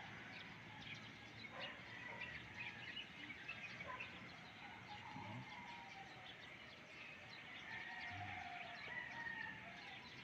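Faint birds chirping, with a few longer drawn-out calls near the end.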